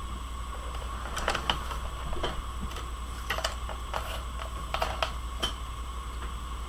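A dozen or so light, sharp clicks and taps at irregular spacing as small craft tools and supplies are handled on a desk, over a steady low background hum.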